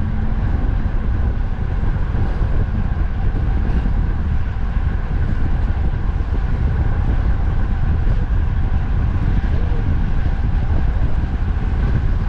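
Wind buffeting the microphone during a bike ride, a steady low rumble mixed with the noise of road traffic.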